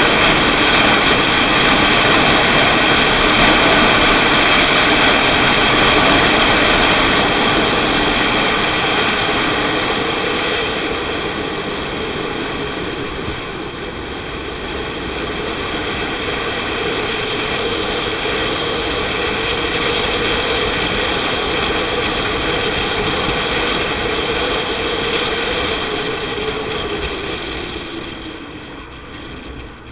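Steady rush of wind and engine noise from a motorcycle riding along the road, growing quieter near the end.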